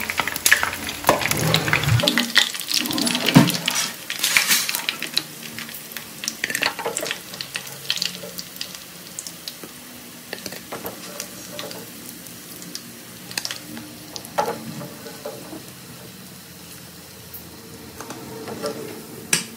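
Veg spring rolls deep-frying in hot oil, sizzling and crackling with sharp pops and the odd clink of a utensil on the pan. It is louder for the first few seconds, then settles to a quieter, steady sizzle.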